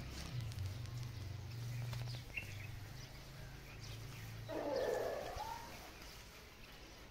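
Farmyard birds calling faintly, with one louder call about four and a half seconds in, over a low steady hum that fades out just before it.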